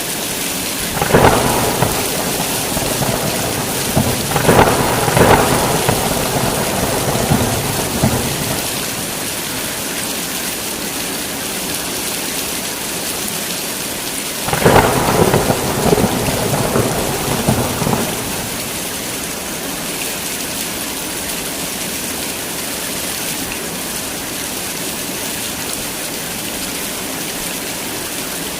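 Heavy rain falling steadily in a thunderstorm. A long rumble of thunder swells and rolls on from about a second in, and a second clap of thunder comes around halfway.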